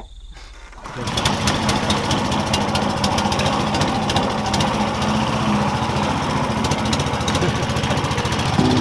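Small boat engine starting about a second in and running loudly with a fast, even rhythm.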